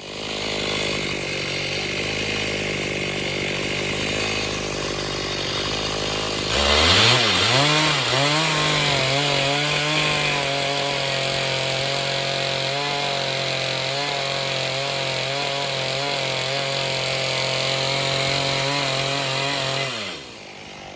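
Two-stroke chainsaw in an Alaskan chainsaw mill ripping a pine log lengthwise into a beam. It runs steadily, then about six seconds in revs sharply up to full throttle and holds there under load, and it drops away near the end.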